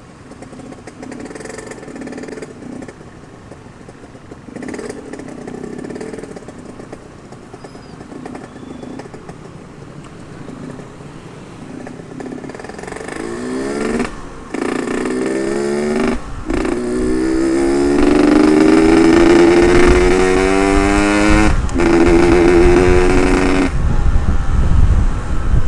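Yamaha RX-King 135 two-stroke single, with a ported cylinder, running quietly at first, then revving hard through the gears from about halfway. The pitch climbs with a short break at each of three shifts and is loudest near the end, then the throttle closes and a low wind rumble remains.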